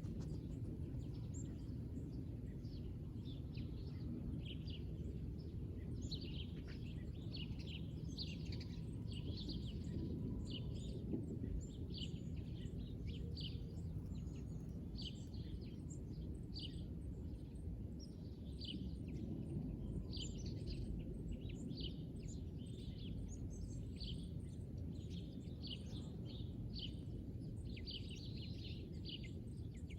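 Small birds chirping, many short high calls in quick succession, over a steady low background rumble.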